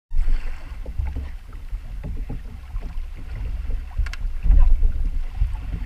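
Wind buffeting the microphone and choppy water splashing against a small wooden boat, an uneven gusty rumble. A single sharp knock comes about four seconds in.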